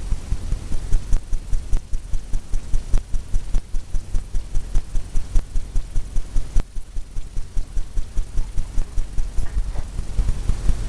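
Fan brush tapping rapidly against a pre-stretched canvas, a steady run of soft thuds about five a second, laying in a water line.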